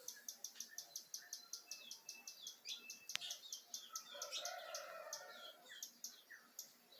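A flock of small birds chirping together: a fast, even run of short high chirps, about five a second, with other calls mixed in. A single sharp click about three seconds in.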